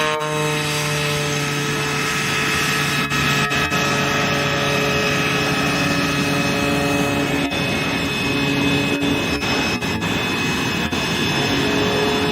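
L-39 Albatros jet trainers' Ivchenko AI-25TL turbofans in flight: a steady, loud turbine whine made of several pitched tones over a rushing jet noise.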